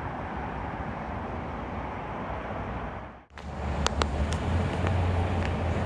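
NJ Transit push-pull commuter train running in on electrified track, with a steady rumble of wheels on rail. The sound drops out briefly just after three seconds, then returns as a louder, deeper rumble with two sharp clicks.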